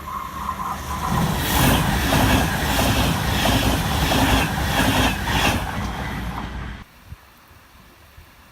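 Train passing close by at speed, its wheels clacking in a steady rhythm over the rail joints; the sound cuts off suddenly about seven seconds in.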